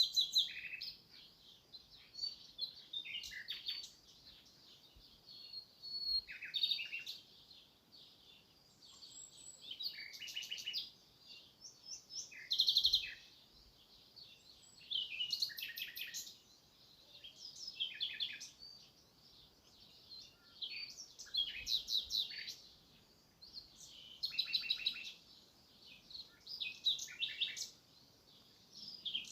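A small bird chirping in short, high bouts of quick notes, some falling in pitch, repeating every two to three seconds.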